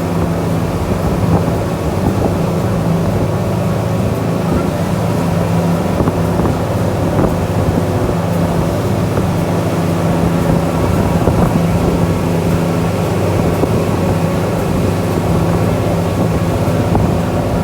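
A tour boat's engine running steadily at cruising speed, a constant low drone heard from aboard, with wind buffeting the microphone.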